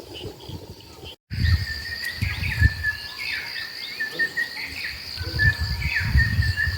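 Rainforest insects giving a steady high buzz, with repeated short falling chirps over it and irregular low rumbles. The sound drops out briefly about a second in, then comes back louder.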